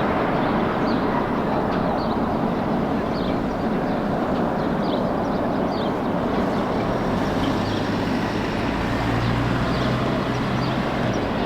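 Heavy truck traffic on a highway: steady road and tyre noise, with a truck engine's low drone coming in about seven seconds in.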